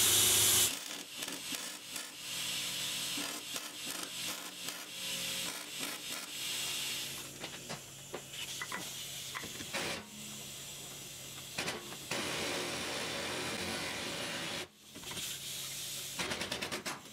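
Welding crackle that cuts off abruptly under a second in, followed by quieter irregular scraping, rubbing and scattered clicks and knocks of metal tools being handled.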